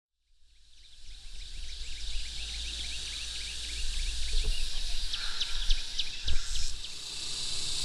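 Many small birds chirping in quick, repeated high notes, fading in at the start over a low wind rumble on the microphone. Near the end a steady high insect drone comes in.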